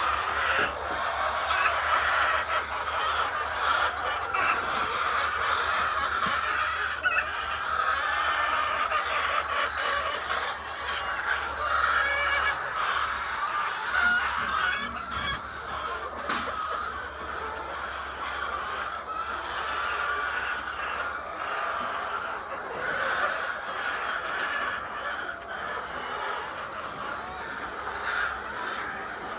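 A flock of egg-laying hens clucking and chattering, many birds at once in a continuous din.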